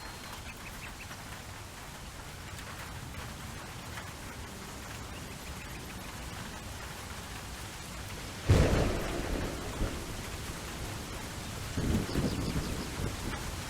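Steady rain falling, with thunder: a sudden sharp clap about eight and a half seconds in that rumbles away, and a second, softer rumble a few seconds later.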